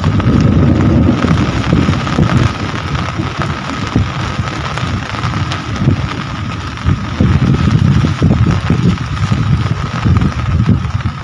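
Heavy rain falling, with a strong, uneven low rumble under the hiss and a thin steady tone running through it.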